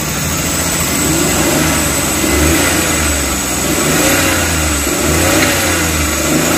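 Suzuki K6A three-cylinder engine running, heard close up at the timing-chain end, noisy with a ticking from the timing chain, which the mechanic takes for a slack chain from a weak hydraulic tensioner that needs replacing.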